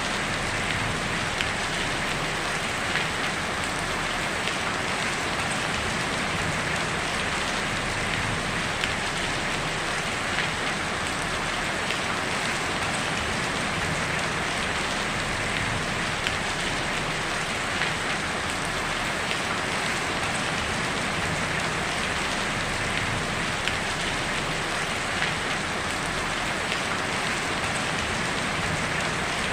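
Heavy rain falling steadily on a tin roof, an even dense patter with the odd louder drop standing out.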